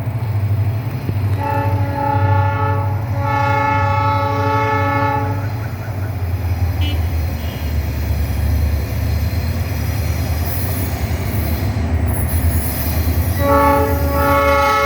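EMD diesel-electric locomotives running with a steady low engine rumble, sounding a multi-tone air horn: a short blast then a longer one about a second and a half in, and the same short-then-long pair again near the end.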